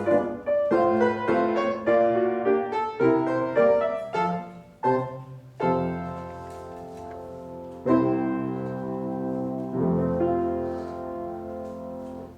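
Piano playing accompaniment for a ballet-class exercise: a run of quick notes for about five seconds, then three long held chords, each dying away, the last fading out near the end.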